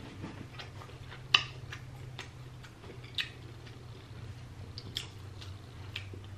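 Close-miked chewing of seafood: scattered wet mouth clicks and smacks, the loudest about a second and a half in, over a faint steady low hum.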